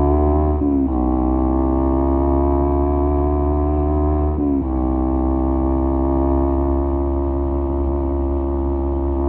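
Kawasaki Z250 parallel-twin engine breathing through an aftermarket SeaPro muffler, running at steady cruising revs. The revs dip briefly about a second in and again around the middle.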